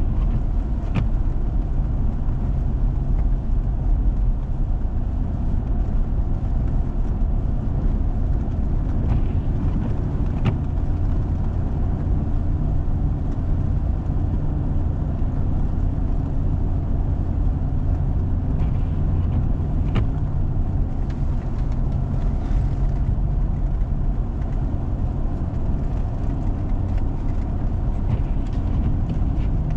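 Four-wheel-drive vehicle driving steadily on a snow-covered road: a continuous low rumble of engine and tyres, with a few faint clicks now and then.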